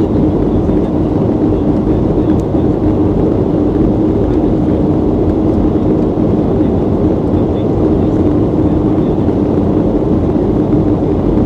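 Steady cabin noise of a Boeing 737-800 in flight: an even rush of engines and airflow with a constant low hum.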